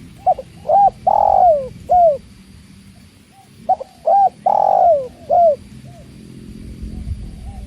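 Spotted dove (tekukur) cooing: two phrases of four arched notes each, the third note the longest and loudest, about three seconds apart.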